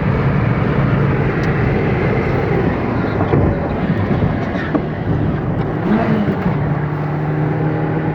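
Truck engine running steadily under way, with road and tyre noise; a low engine hum becomes steadier about seven seconds in.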